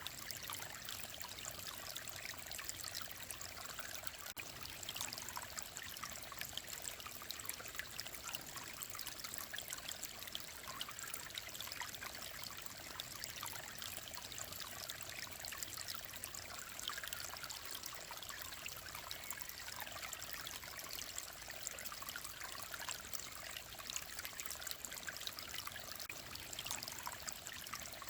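Mountain stream flowing and trickling steadily over rocks, a continuous bright babbling hiss without breaks.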